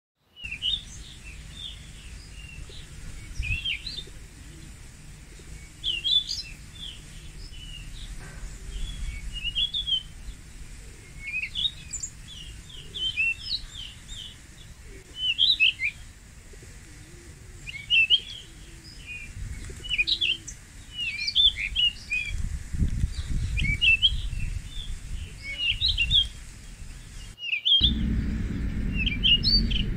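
Small birds chirping: many short, quick high chirps and tweets, with low rumbles now and then. Near the end the sound cuts briefly, and a steady low hum continues under the chirping.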